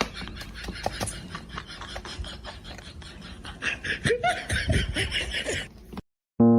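People laughing over a busy background of short clicks and knocks. The sound cuts off suddenly near the end.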